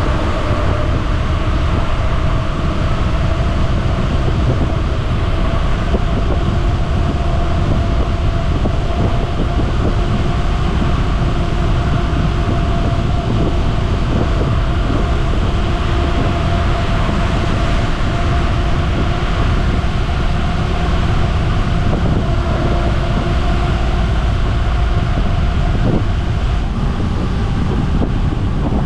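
Steady, loud rumble and wind rush of a bicycle coasting fast downhill inside a long road tunnel, with a faint steady hum running through it.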